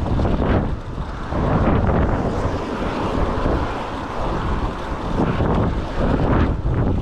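Strong typhoon wind buffeting the microphone: a loud, gusting rumble with rushing noise that rises and falls.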